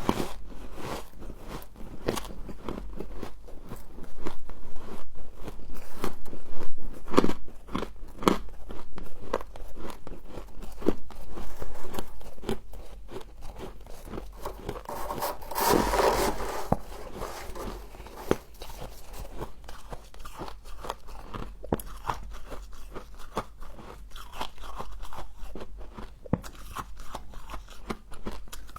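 Close-miked biting and chewing of crunchy frost: many short, sharp crunches at irregular intervals, with a louder spell of crunching about midway.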